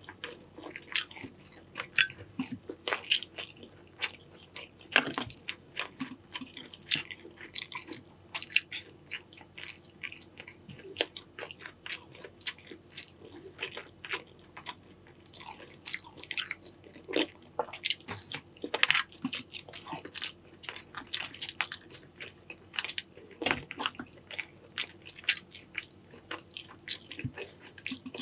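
Close-miked eating of a seafood boil: irregular chewing and biting with many sharp crunches and wet clicks.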